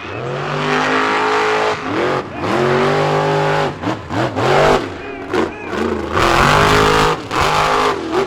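Monster truck engines revving hard in repeated cycles: the pitch climbs, holds high for a second or two, then drops, about three times, with a fourth strong surge near the end.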